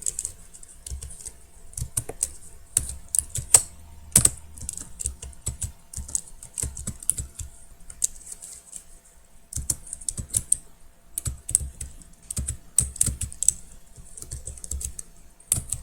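Typing on a computer keyboard: quick irregular runs of key clicks, with short pauses between the runs, as a name is typed in.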